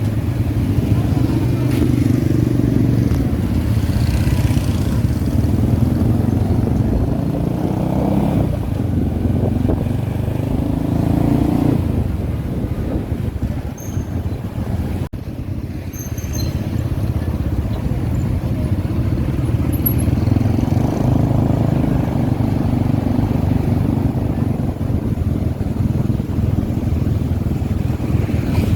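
Motorbike engine running under way through traffic, its pitch swelling and easing a few times as it speeds up and slows.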